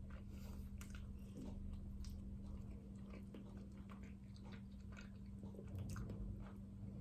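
Faint chewing of a soft steamed pork bun (siopao), with small irregular mouth clicks and smacks, over a steady low hum.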